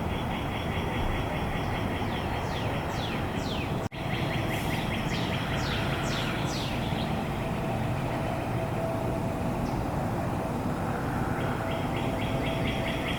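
Songbirds calling: a rapid trill at the start and again near the end, and a run of quick descending whistled notes in between, over a steady low rumble of outdoor background noise.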